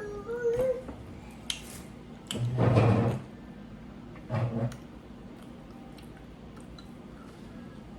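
Close-miked eating sounds: a short hummed voice sound near the start, two louder bursts of chewing or mouth noise about two and a half and four and a half seconds in, then faint soft clicks.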